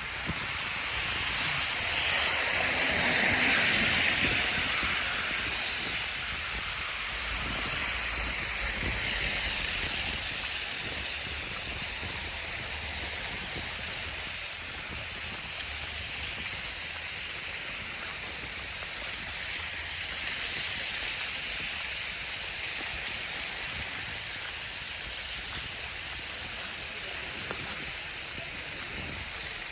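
Street ambience in a snowstorm: an even rushing noise that swells louder for a few seconds near the start, then settles.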